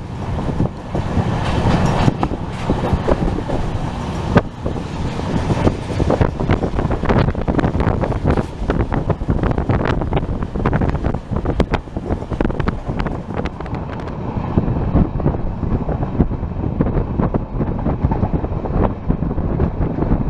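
Express passenger train running at speed, heard from aboard a coach: a steady rumble of wheels on the rails with many sharp clicks and rattles, and wind buffeting the microphone.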